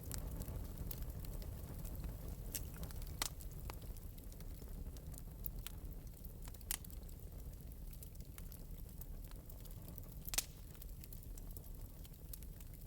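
Wood fire crackling softly in an open metal fireplace: scattered sharp pops, the loudest about three seconds in and again near ten seconds, over a steady low rumble.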